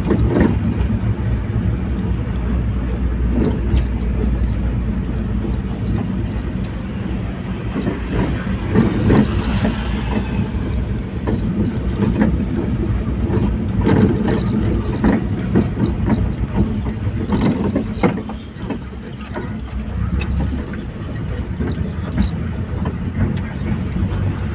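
A car driving, with steady engine and road rumble and irregular knocks from bumps.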